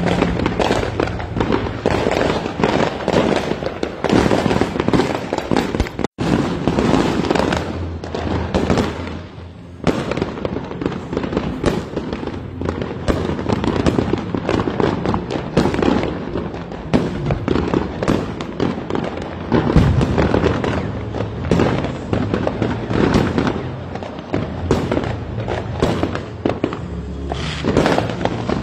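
Many fireworks and firecrackers going off at once, near and far: a dense, unbroken crackle of bangs and booms with no pause.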